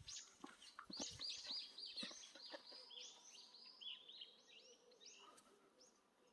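A small bird singing faintly: a rapid series of high, down-slurred chirping notes lasting about five seconds, with a few light rustles or clicks in the first couple of seconds.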